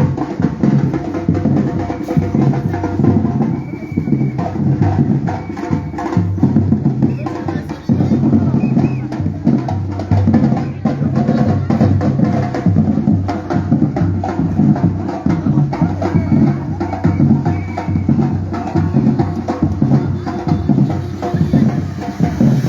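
Batucada drum group playing a steady, dense rhythm, with deep bass drums underneath.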